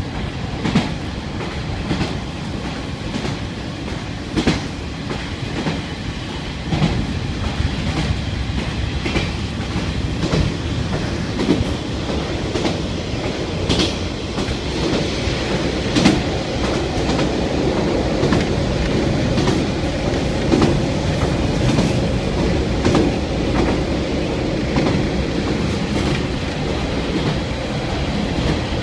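Running sound of a KiHa 147 diesel railcar heard inside the passenger cabin: a steady rumble, with the wheels clacking at irregular intervals over rail joints and a sharp knock about sixteen seconds in.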